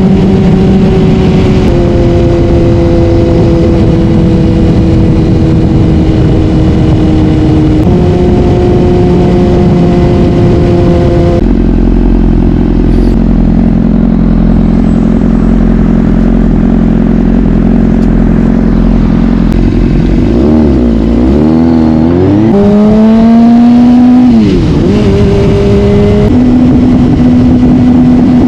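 Honda CBR600RR inline-four engine running loud while riding: a steady cruising note that drifts slowly in pitch with a couple of small shifts, then about twenty seconds in it wavers and climbs as the bike accelerates, drops at a gear change, and settles on a steady tone.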